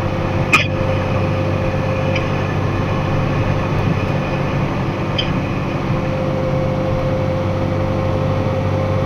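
Box truck's engine and road noise heard from inside the cab: a steady drone with a faint whine held at one pitch, and a short click about half a second in.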